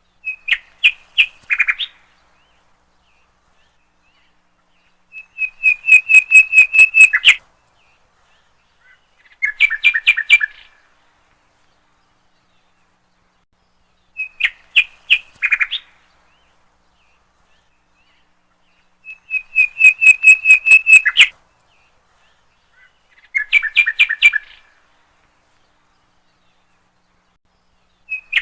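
Bird song in short phrases of rapid, evenly spaced chirps, with silence between the phrases. The same three-phrase sequence comes again about fourteen seconds later, as in a looped recording.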